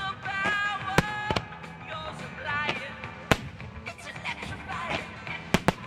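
Fireworks shells bursting in a display: sharp bangs about one second in and again just after, another a little past three seconds, and a quick pair near the end, over a melodic line of music.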